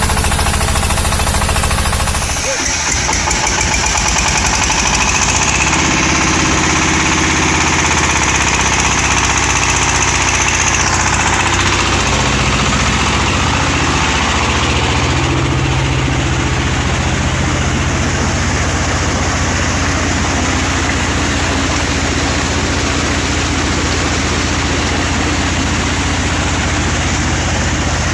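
Diesel engine of a trolley-mounted water pump running loudly with a knocking beat. About two seconds in the sound changes, losing its high hiss and settling into steadier, lower running.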